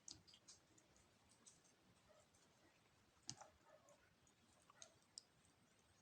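Faint, scattered small clicks and taps of eating and handling food, with one louder click about three seconds in.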